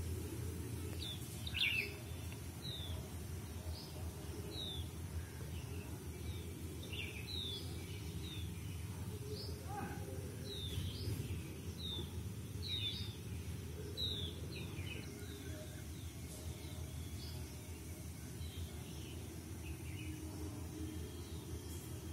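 Birds chirping: short, high, downward-sweeping chirps, about two a second at first and thinning out after about fifteen seconds, over a steady low hum.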